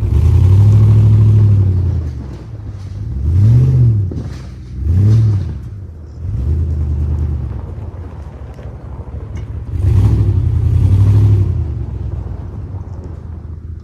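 Ford half-track tractor's engine working while pushing snow with its blade, its speed rising and falling several times: a long surge at the start, two short quick ones in the middle, and another long surge near the end.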